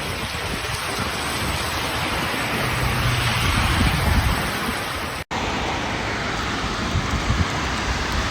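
Steady hiss of heavy rain, cut off about five seconds in and followed by a second stretch of similar rain noise.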